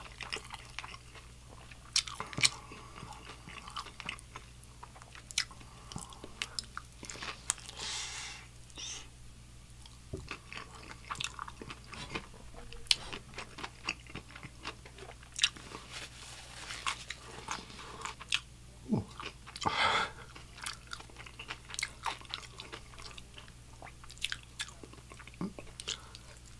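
Close-miked chewing of crispy Nashville hot fried chicken: sharp crunches and wet mouth clicks at an uneven pace, with two longer breathy hisses about eight and twenty seconds in.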